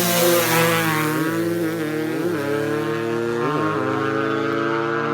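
Dirt bike engines running hard under full throttle through the gears, with three brief dips as they shift up. The sound grows duller toward the end.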